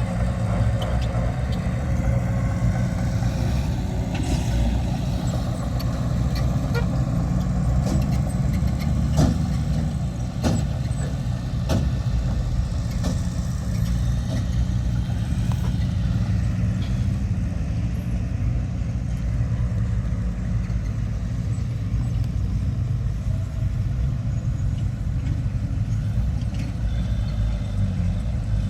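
Diesel engine of heavy earthmoving machinery running steadily, with a few sharp metallic clanks around the middle.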